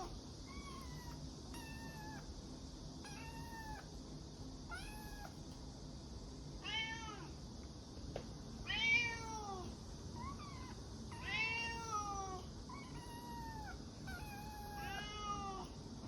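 Kitten meowing over and over: about fifteen short, high calls, roughly one a second, with a few louder ones in the middle.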